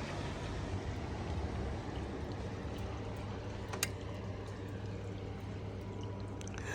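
Steady noise of wet snow and rain falling, with one sharp click about four seconds in.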